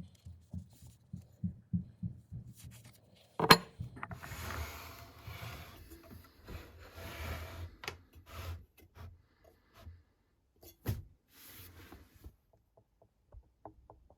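Hand work at a workbench: soft low thuds, then one sharp knock a few seconds in, followed by several seconds of rubbing or scraping and a few scattered clicks and taps.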